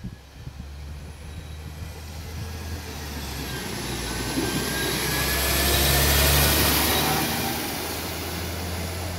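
Train approaching at close range. It grows louder to a peak about two-thirds of the way through, then eases slightly, with a steady low hum and thin high whining tones above it.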